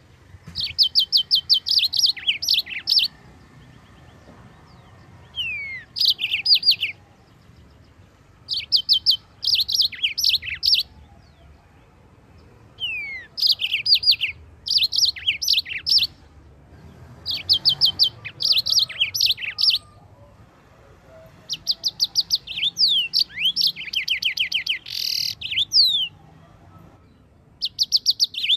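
Yellow-fronted canary (Mozambique canary) singing: phrases of rapid, repeated high chirps and trills, one every few seconds with short pauses between them.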